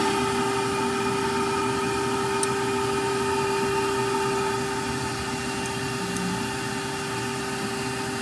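Shop vacuum motor running steadily, a constant hum over rushing air, pulling suction through a tube on an opened brake caliper bleeder valve to draw out brake fluid and air. It drops slightly in level about halfway through.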